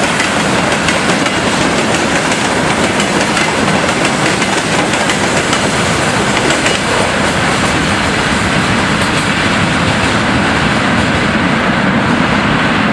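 Freight train of tank cars and covered wagons rolling past: a loud, steady rumble of wheels on rails with the clickety-clack of wheels crossing rail joints.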